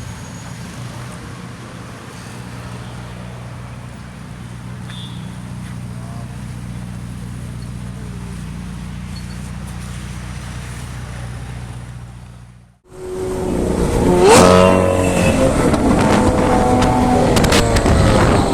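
Supercar engine running at a steady idle. About thirteen seconds in, the sound cuts out abruptly and a louder stretch follows, the engine note rising and falling.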